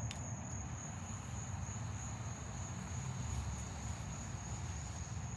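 Crickets chirping in a steady high-pitched drone, over a low steady rumble of outdoor background noise.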